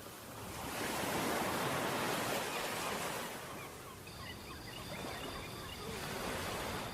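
Seaside wind and surf: a broad rushing noise that swells for about three seconds and then eases off. In the second half come faint scattered chirps and a thin steady high whine.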